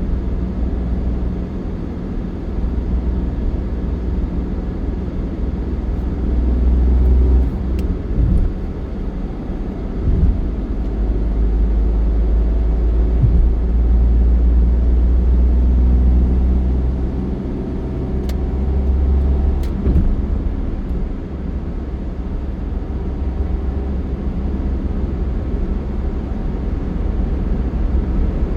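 Steady low rumble of a moving road vehicle, with road noise and a few short thumps from bumps in the road.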